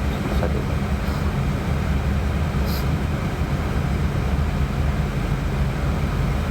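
Steady airliner flight-deck noise in descent: a constant low rumble of airflow and engines. A couple of faint high clicks sit on top of it.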